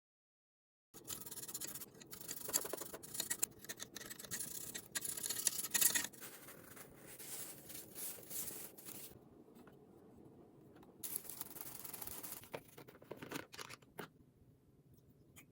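Scratchy scrubbing and rubbing in irregular strokes with scattered clicks, from cleaning an air conditioner by hand. It starts after about a second of silence and eases off twice, around the middle and near the end.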